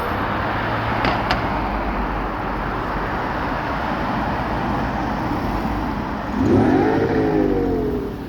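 Car engine and exhaust running steadily. About six seconds in the engine is revved once, its pitch climbing and then falling back over a second or so.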